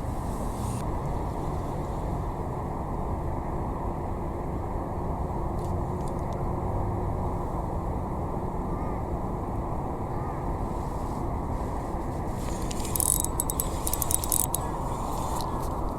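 Steady low wind rumble on the microphone, with a quick run of sharp clicks and rattles about thirteen seconds in.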